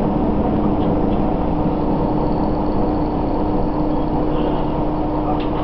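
Diesel railcar heard from inside while running along the track: a steady engine drone with a held low tone over rumbling wheel noise. A faint high whine comes in for a few seconds midway, and there are a couple of light clicks.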